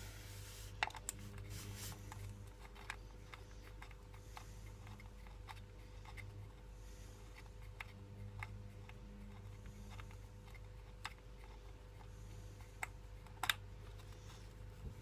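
Faint, scattered small clicks and taps of hand tools on the sump bolts, with a sharper click about a second in and another near the end, over a low steady hum.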